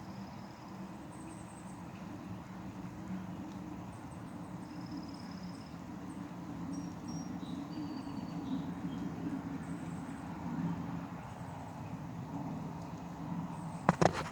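Outdoor background of a steady low hum, like distant traffic, with a few faint, short high chirps scattered through it. Two sharp clicks come just before the end.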